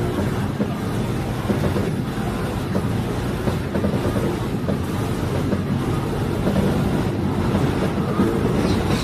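Diesel multiple unit railcar running steadily, with a low engine drone and the noise of wheels on the rails heard from on board.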